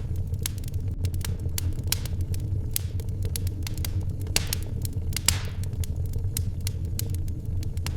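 Wood fire crackling in a fireplace: a steady low rumble under irregular sharp crackles and pops, with one louder pop and a short hiss about five seconds in.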